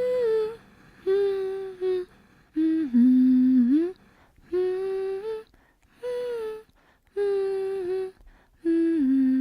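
A voice humming a slow, repeating tune in separate held notes about a second apart. The longest and loudest note, about three seconds in, slides down and back up, and the same phrase comes round again near the end.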